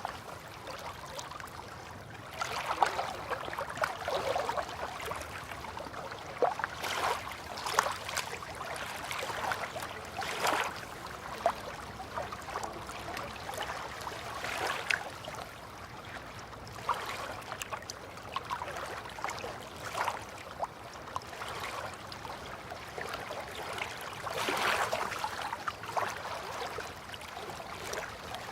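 River water lapping, with irregular small splashes and trickles.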